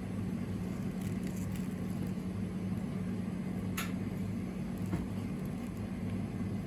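A steady low mechanical hum, with a few light clicks, the clearest about four seconds in.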